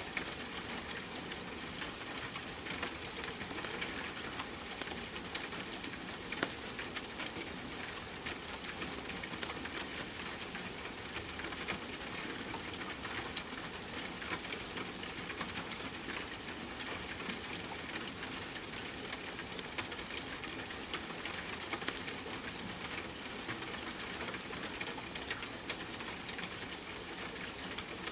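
Steady rain mixed with a crackling fireplace: an even hiss scattered with many small clicks and pops.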